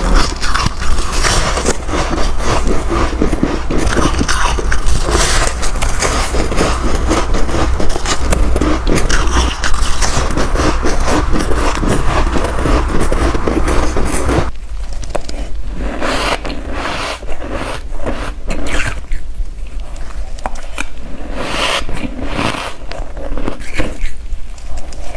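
Soft white ice chunks being bitten and chewed close to the microphone, a dense, continuous crunching and scraping. About halfway through it changes abruptly to separate crunchy bites with short gaps between them.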